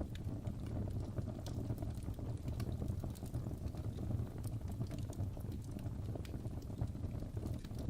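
Fireplace fire crackling: a steady low rumble with irregular sharp pops and snaps.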